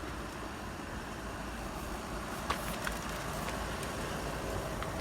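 Steady low rumble of outdoor traffic-like background noise, with a sharp click about two and a half seconds in.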